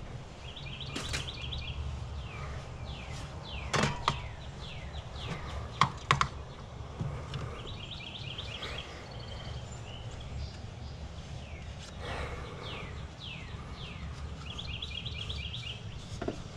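Birds chirping over a steady low background: quick trilled runs of chirps three times and many short downward-sliding calls. A few sharp knocks and clicks come about four and six seconds in, the loudest moments.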